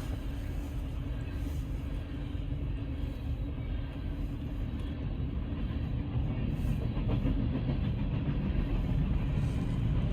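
BNSF grain train rolling through the crossing, its cars giving a steady low rumble on the rails that grows louder about six seconds in.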